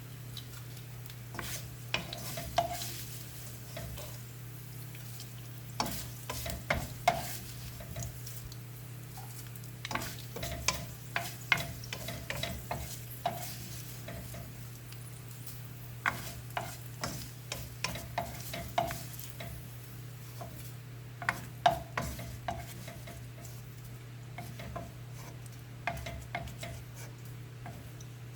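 Crispy-fried catfish slices being lifted out of hot oil: the oil keeps sizzling while a metal utensil scrapes and clicks against the pan in short clusters every few seconds, over a steady low hum.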